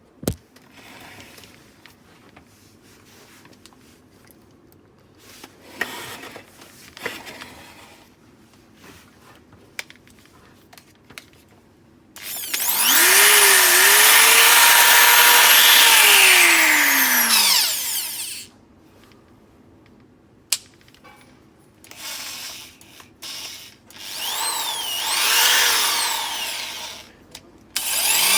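Interskol electric drill running without load: faint clicks and handling noise at first, then about twelve seconds in the motor spins up, runs at speed for about five seconds and winds down. Near the end it is run in several shorter bursts, the speed rising and falling with the trigger.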